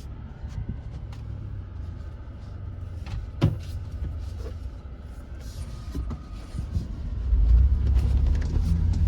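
Jeep driving on a rough dirt trail: low rumble of engine and tyres with scattered knocks and rattles, growing louder about seven seconds in.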